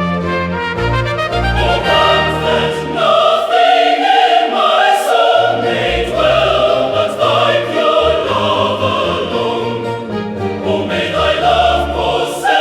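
Choir singing a slow hymn in sustained, held notes, with orchestral accompaniment.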